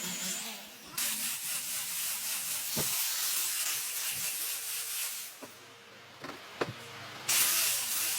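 A tool drawn across wood in long hissing strokes. One runs about four seconds, then after a pause with a few light knocks another begins near the end.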